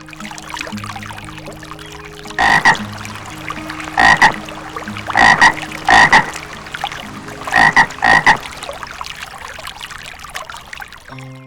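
A frog croaking in loud, short calls that come mostly in pairs, about six in all, over a steady background hiss.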